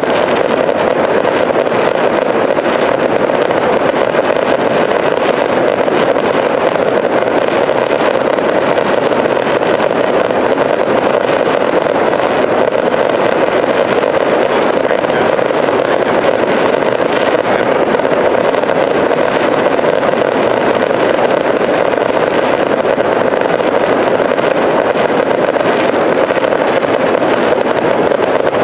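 Aerial fireworks display firing a dense, continuous barrage: shell bursts and crackle merge into one steady, unbroken din with no gaps between shots.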